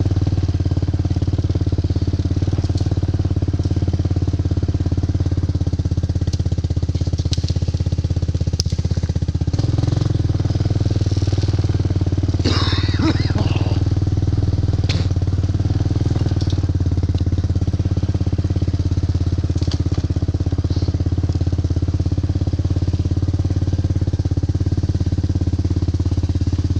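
ATV (four-wheeler) engine running steadily under way. A brief higher warbling sound comes in about halfway through.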